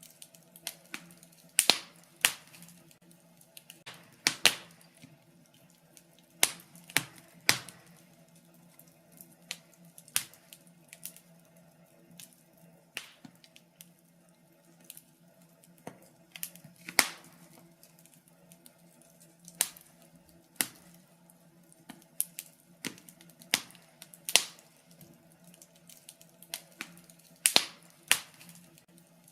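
Wood fire in a fireplace crackling, with irregular sharp pops, a handful much louder than the rest, over a faint steady low hum.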